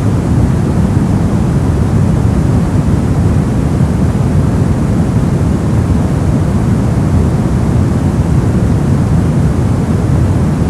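Steady white noise, even and unchanging, weighted toward the low end so it sounds like a deep rushing hiss.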